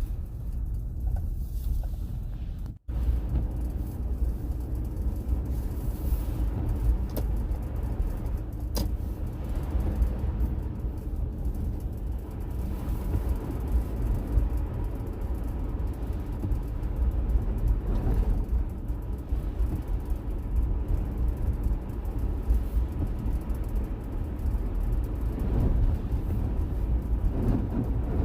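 Steady road and engine rumble inside a car driving on a snowy road, with a momentary dropout about three seconds in.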